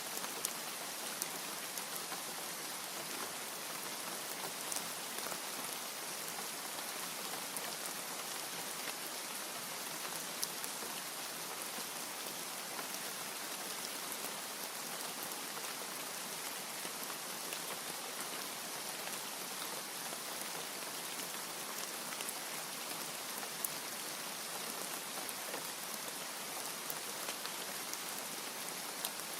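Steady rain falling, an even hiss with scattered sharper drop ticks; no thunder.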